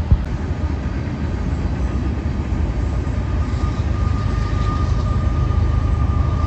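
Freight train of tank cars and boxcars rolling past, a steady low rumble. A thin, steady high whine comes in about four seconds in and grows stronger toward the end.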